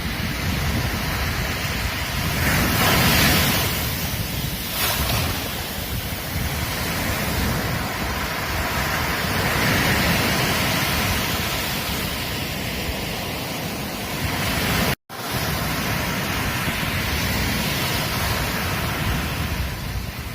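Ocean surf breaking and washing up a beach, a continuous rush that swells loudest about three seconds in and again around ten seconds. The sound drops out for an instant about fifteen seconds in.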